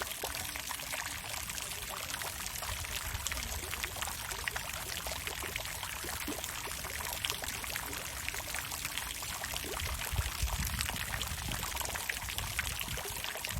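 Water fountain splashing and pouring steadily into its basin, a continuous rush of water flecked with small droplet splashes.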